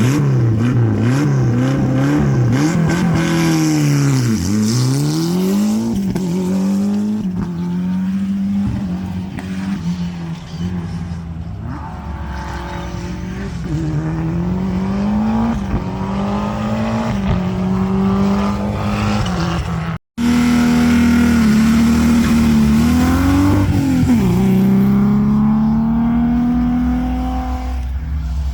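Historic rally car engines revving hard at a special-stage start, the pitch swinging up and down with repeated throttle blips. About twenty seconds in the sound breaks off for an instant, then an engine holds high revs with a dip and rise before falling away near the end.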